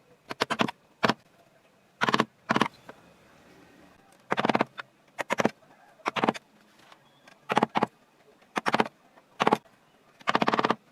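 Hand wood-carving tool cutting into wood in short strokes, each a brief crisp scraping crackle. The strokes come irregularly, often one every half second to a second, sometimes in quick pairs.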